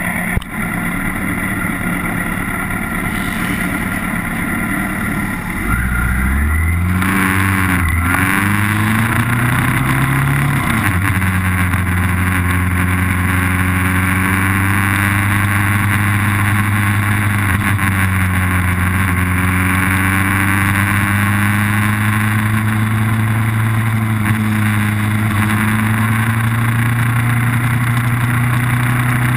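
Engine of a vehicle lapping a race circuit, heard from an onboard camera: it pulls up in revs with a gear change about six to ten seconds in, then runs steadily at speed with small rises and falls in pitch, over steady wind hiss.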